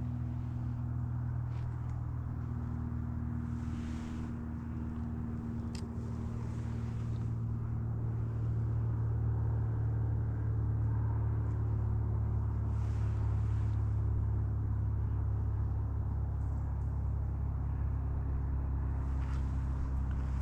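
A motor vehicle's engine droning steadily at a distance, growing somewhat louder about eight seconds in.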